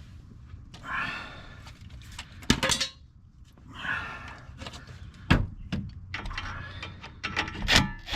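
Hand tools working a steering tie rod's jam nut loose: metal clanking and scraping, with three sharp metallic knocks a few seconds apart.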